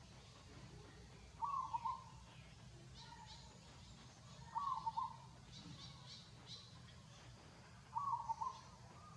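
A bird calling: a short call of about half a second, repeated three times at even intervals about three seconds apart, with faint high chirps from other birds in between.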